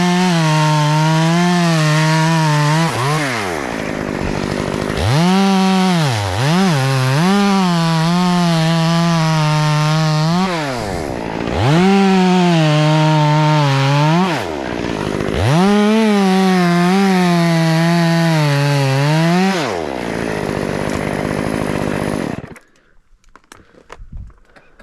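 Two-stroke chainsaw revved to full throttle for four cuts, each held for a few seconds, with the pitch dropping back between them. The sound cuts off suddenly near the end.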